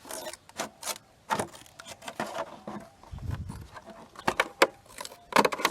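Scissors snipping through the side of a plastic milk bottle, a series of irregular sharp cuts and plastic crackles, with a dull handling bump about three seconds in.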